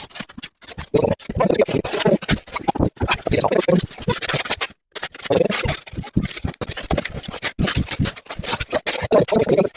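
Protective plastic sheeting on a new car being pulled off and crumpled: a loud, dense crackling and rustling with rips, pausing briefly about half a second in and again near the middle.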